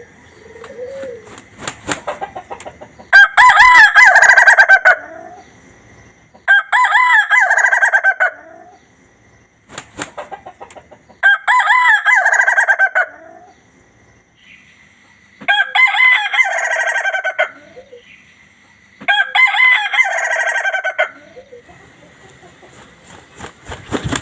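Ayam ketawa (laughing chicken) rooster crowing five times, each crow a long run of quick pulsed syllables, about two seconds long, that sounds like laughter. A few sharp clicks fall between the crows.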